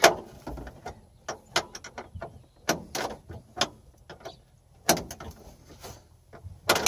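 Irregular sharp knocks, snaps and clatters of a GMC dashboard's trim being pried and broken apart by hand. The loudest cracks come at the very start, around five seconds in, and near the end.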